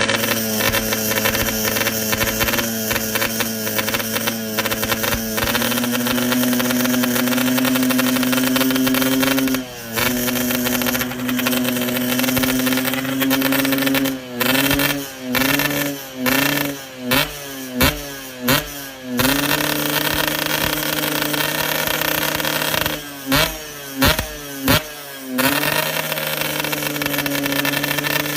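Yamaha RX-King 135 single-cylinder two-stroke motorcycle engine, crisp through its exhaust, running at a steady fast idle and held at higher revs, then blipped sharply about six times in quick succession around the middle and three more times near the end.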